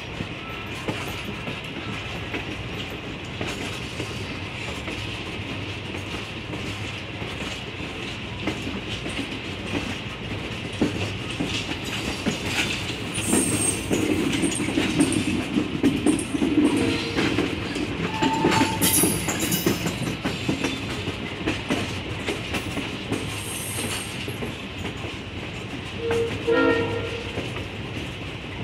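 Ride noise of a passenger excursion train heard from its open vestibule: wheels clicking over the rail joints over a steady rumble. The sound grows louder through the middle, with scattered clicks and faint squeals. Near the end comes a brief horn toot.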